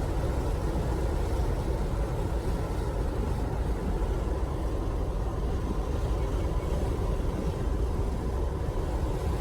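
Steady low rumbling noise of a vehicle on the move, even throughout with no sudden events.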